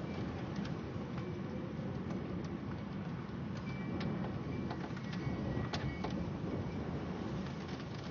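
Steady wind and rain noise of a severe thunderstorm, dominated by a low rumbling rush, with scattered sharp ticks.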